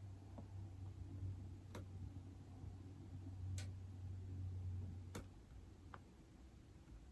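Faint, sparse taps on an iPad, four sharp clicks spread over about seven seconds, over a low steady hum that stops about five seconds in.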